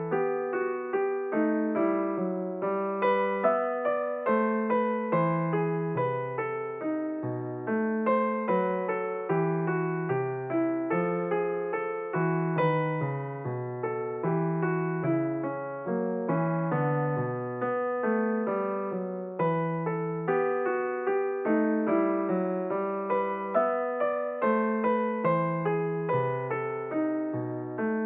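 Background piano music: a steady stream of plucked-sounding notes, each note ringing and fading.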